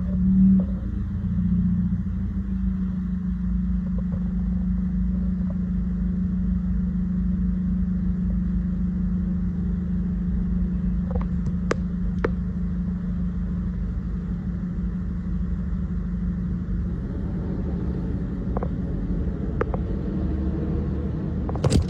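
A vehicle engine running steadily at idle, with a low even drone. A few faint clicks come about halfway through, and a sudden loud rattling clatter comes right at the end.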